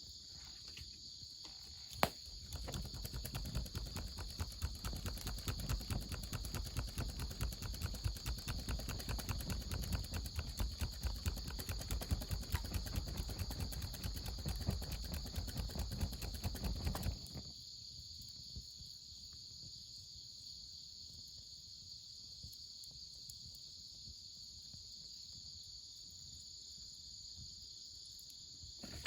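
Crickets and other insects chirping in a steady high drone. About two seconds in, a sharp click starts a dense run of rapid clattering that lasts about fifteen seconds and then stops abruptly.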